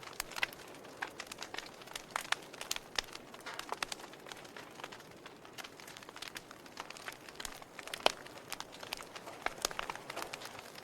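Wood fire in a fireplace crackling, with irregular sharp pops over a low steady hiss; the loudest pop comes about eight seconds in.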